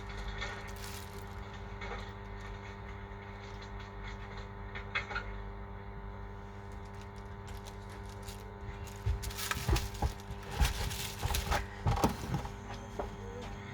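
A steady electrical hum, then a flurry of small clicks and knocks from about nine seconds in, lasting some three seconds, as of tools and parts handled on a workbench.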